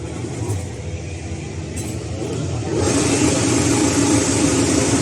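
A motor vehicle engine running with steady tones under a noisy wash, growing suddenly louder and hissier about three seconds in.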